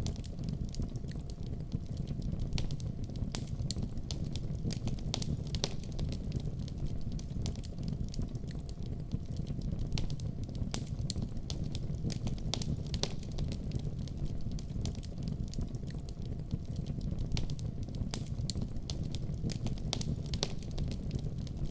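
Wood fire burning in a fireplace: a steady low rumble of flame with frequent sharp pops and crackles scattered irregularly throughout.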